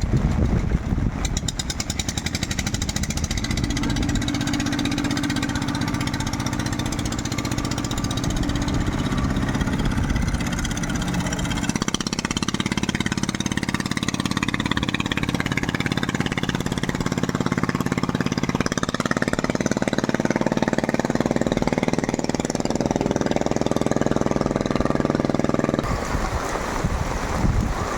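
Longtail boat engine running steadily with a knocking, jackhammer-like beat. Its pitch shifts about twelve seconds in, and the sound changes abruptly a couple of seconds before the end.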